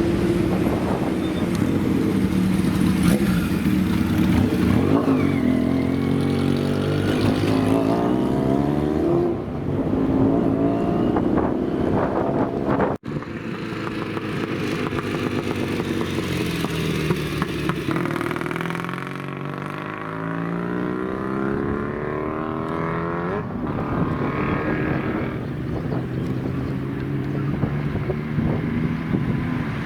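Classic motorcycle engines revving over and over, their pitch swinging up and down, with several engines overlapping. There is a sudden short break about 13 seconds in.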